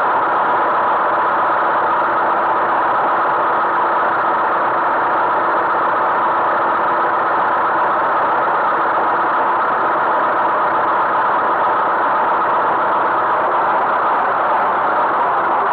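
Tractor engine running steadily at an even speed, with no change in pitch or level.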